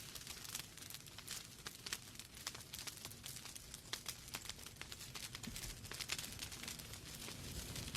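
Wood fire burning in a fireplace: burning logs crackling with irregular sharp pops over a soft steady hiss of flame.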